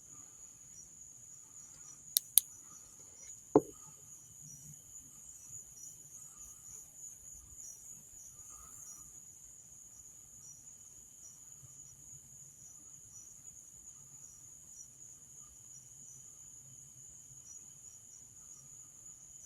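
Steady high-pitched trill of night insects, with three sharp clicks a few seconds in.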